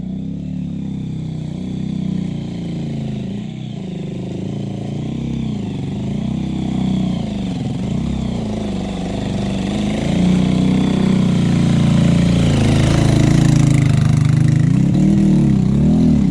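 Small motorcycle engine running under load on a steep climb, its revs rising and falling. It grows louder about two-thirds of the way through.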